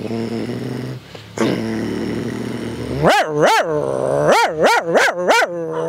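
A man imitating a teased dog with his voice: a held growl, then a quick run of about six barks in the second half.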